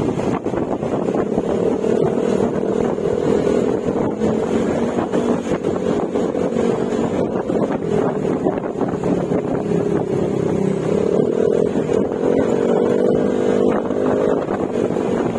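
Yamaha Mio Gravis 125 cc single-cylinder scooter engine running at a steady cruise through an aftermarket Akrapovic exhaust with silencer. The engine note rises a little past the middle and settles back.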